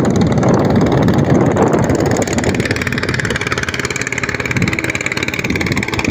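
A motor engine running steadily under a loud, rough rushing noise, as from a moving vehicle. A faint steady high tone comes in about two seconds in.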